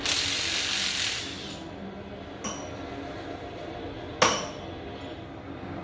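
A hiss lasting about a second and a half, then two sharp metal clinks, the second one louder, from tools or parts being handled on an engine teardown.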